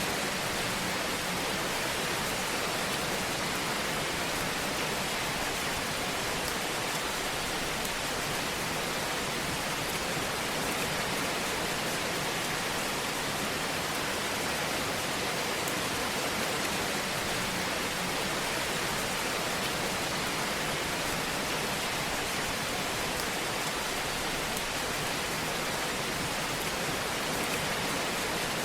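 Fireplace ambience: a steady, even hiss of burning fire, with no distinct crackles or pops standing out.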